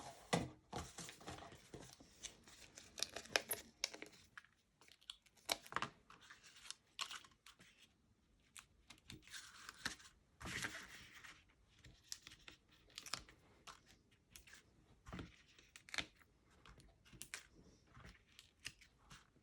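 Faint, scattered peeling and tearing sounds with small paper rustles and taps: foam adhesive dimensionals being peeled off their backing sheet while cardstock is handled.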